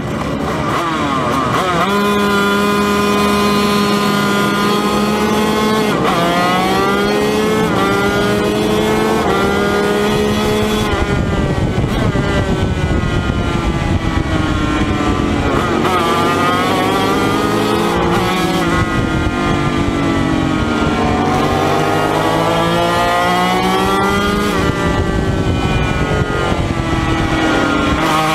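Yamaha TZ250 two-stroke twin racing motorcycle engine heard from onboard, accelerating hard and changing up through the gears. Its pitch climbs and drops again and again as it is revved and shifted.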